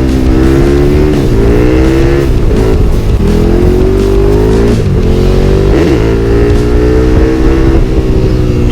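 Dirt bike engine running at high revs. Its pitch climbs steadily and then drops sharply and briefly several times, as when the throttle is rolled off and opened again.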